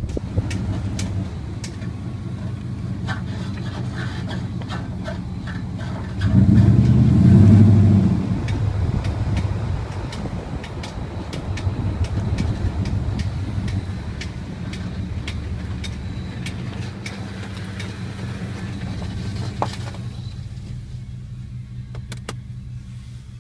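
2003 Dodge Dakota 4x4 with its engine running, and sharp, irregular clicks over the hum that thin out near the end. The sound swells louder for about two seconds some six seconds in. The clicking persists although the inner and outer tie rods, ball joints and steering shaft have been replaced and the CV axles show no play, so its cause is still unknown.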